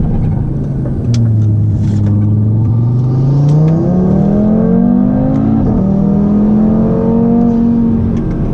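Audi TT RS turbocharged 2.5-litre inline five-cylinder accelerating hard through an aftermarket exhaust with its valves open, really loud. Revs climb steadily after the throttle goes down about a second in, drop sharply at an upshift about two-thirds through, then pull again.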